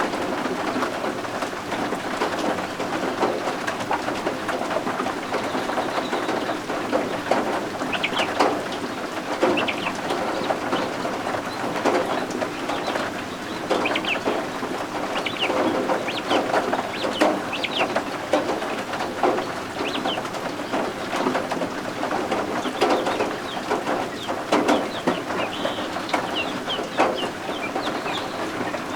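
Baby guinea fowl keets peeping in short, high chirps, scattered and more frequent after the first quarter or so, over a steady hiss of rain.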